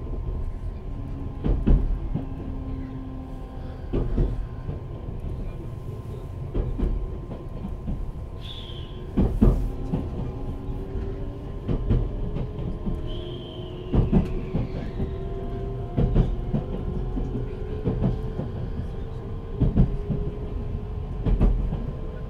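JR Central 383 series electric train running, heard from inside a motor car: the Toshiba GTO inverter and traction motors whine, the tone rising slowly through the second half as the train gathers speed. Under it are steady wheel rumble and sharp rail-joint clicks every couple of seconds.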